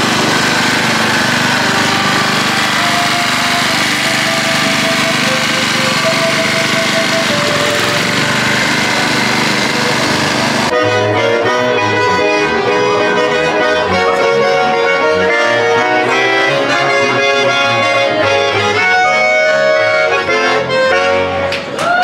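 Accordion music. For the first half the melody sits under a noisy wash. About halfway it cuts abruptly to a clearer accordion tune with bass notes.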